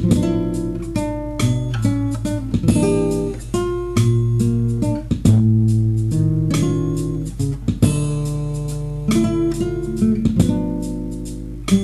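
Guitar playing an instrumental song introduction: plucked notes and chords over low bass notes, with no singing.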